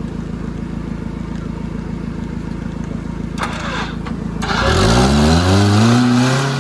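An off-road 4x4's engine running steadily at low revs, then revved hard about two-thirds of the way in: the pitch climbs, holds, and starts to ease off at the end, with a loud rush of noise alongside the rev.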